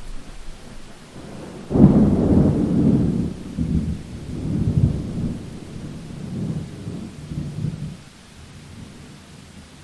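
Thunder breaks suddenly about two seconds in and rumbles on in several rolling swells, dying away near the end, over a steady hiss of heavy rain.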